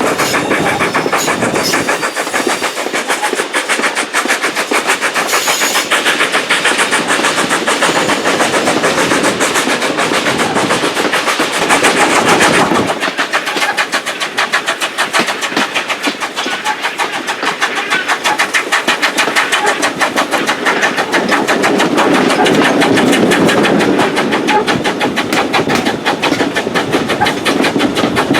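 Steam locomotive working hard, its exhaust beats coming in a fast, even rattle of chuffs with a steady hiss of steam underneath.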